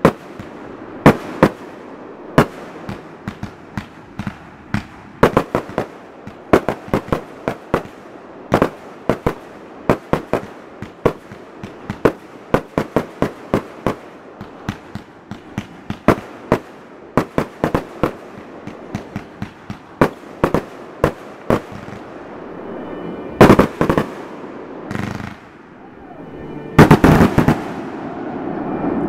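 Aerial consumer fireworks going off in a rapid string of sharp bangs, several a second. Near the end come two louder, denser bursts of bangs.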